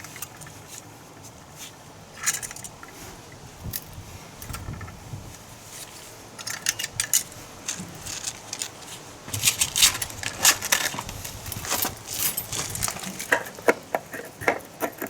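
Metal tools and parts clinking and clattering in irregular bursts, sparse at first and busy from about halfway through.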